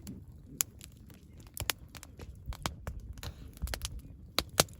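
Wood campfire crackling, with sharp irregular pops and snaps over a low rumble; the loudest pops come close together near the end.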